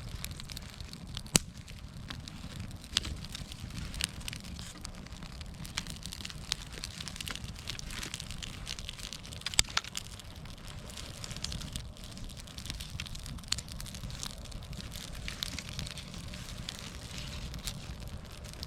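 Campfire burning, with frequent irregular crackles and sharp pops over a low steady rumble; a few pops stand out louder, about a second in and near the middle.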